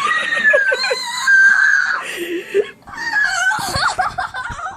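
Excited, high-pitched screaming on opening a Christmas present: two long shrieks with excited voices between them.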